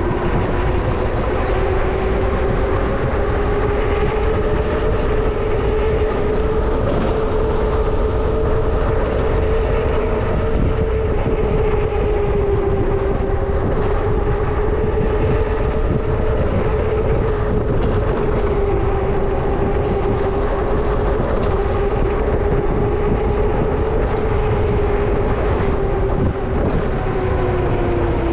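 Electric motor whine of a moving vehicle, held at a steady pitch over heavy rumble and rushing noise, dropping in pitch at the very end as it slows.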